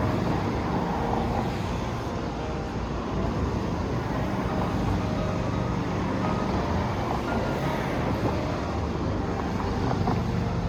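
Steady road-traffic noise: a continuous hum of vehicle engines and tyres with no distinct single event.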